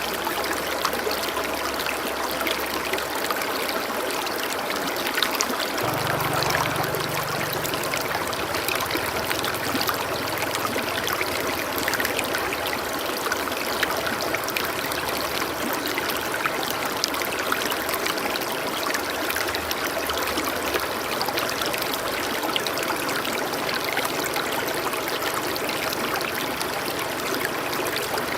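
Running water trickling and splashing steadily, a continuous rush dense with small droplet splashes.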